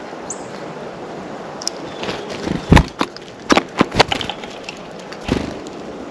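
Sharp knocks and taps close to the microphone at a bird feeder, from birds landing on it and pecking, the loudest about three seconds in and several more over the next couple of seconds. A single short high bird chirp sounds near the start.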